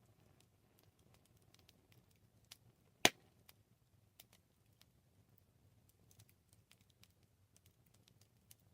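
Wood campfire crackling: scattered small sharp pops and ticks over a low steady hiss, with one loud snap about three seconds in.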